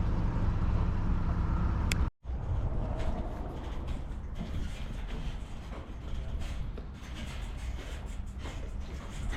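Boat's outboard motor running at low speed, a steady low rumble. It breaks off abruptly about two seconds in, and a quieter rumble with small knocks and clicks follows.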